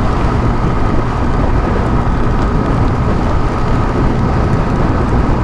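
A 150cc motorcycle being ridden, heard as a steady, loud rush of wind on the microphone with the engine running underneath.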